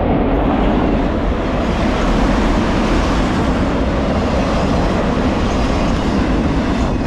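Empty multilevel autorack freight cars rolling past close by, their steel wheels on the rails making a loud, steady noise.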